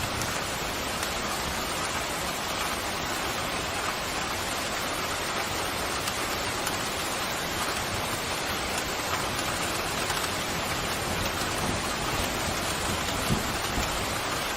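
Steady heavy rain, an even, dense hiss of pouring rain with no breaks. A couple of soft low thumps come near the end.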